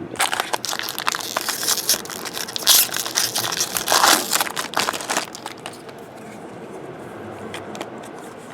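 Plastic trading-card pack wrapper being torn open and crinkled for about five seconds, then a few faint clicks as the cards are handled.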